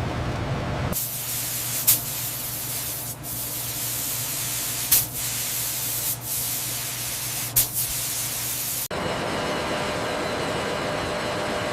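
A steady high hiss, like a spray, starts suddenly about a second in and is broken by about five sharp clicks. About nine seconds in it cuts off abruptly into a lower, rumbling machine noise.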